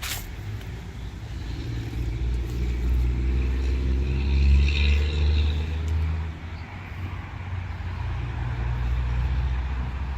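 Road traffic: a motor vehicle's engine passes, growing louder to a peak near the middle and then fading, followed by a second, quieter vehicle passing near the end. A sharp click sounds right at the start.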